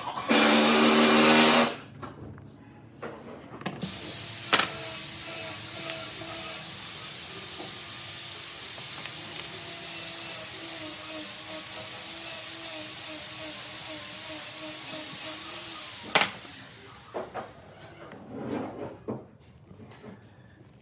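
A power tool on wood: a loud burst of about a second near the start, then a steady hissing run of about twelve seconds that stops suddenly, with a few knocks after it.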